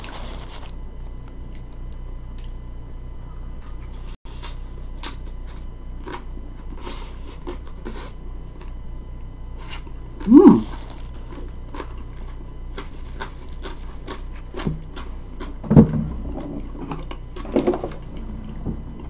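Close-up eating sounds of a napa-cabbage wrap of chicken and pickled radish being chewed: a steady stream of small wet mouth clicks and smacks. A few short hums of the voice break in, the loudest about ten seconds in, rising in pitch.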